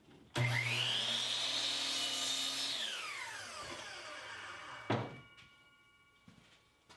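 Electric power saw switched on, its motor whine rising quickly to a steady pitch. It runs for about two seconds, then is switched off and winds down with a falling whine over a couple of seconds. About five seconds in there is a sharp knock, followed by a short ringing tone.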